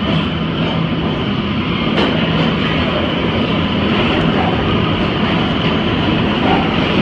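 R142A/R188 subway train of the 7 line running in the station, a steady loud rail rumble with a low hum and a sharp click about two seconds in.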